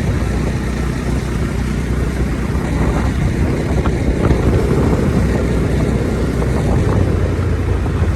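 Motorcycle engine running steadily while riding at low speed, with road and wind noise.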